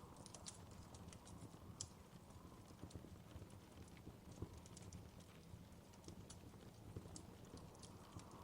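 Wood fire crackling in a fireplace: irregular sharp pops and snaps, several a second, over a soft low rumble of the burning fire.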